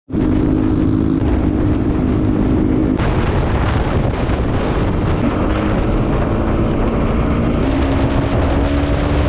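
Loud, steady roar of a waterfall, the rush of falling water with wind buffeting the microphone.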